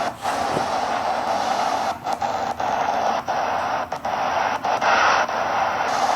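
White noise from an EVP recorder app, an ocean-sound noise track, playing with a random pitch effect applied. The hiss keeps shifting its upper edge and cuts out briefly several times.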